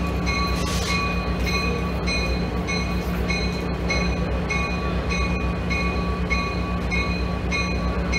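Diesel train locomotive approaching with its engine running as a steady low hum, while a bell rings about twice a second over it.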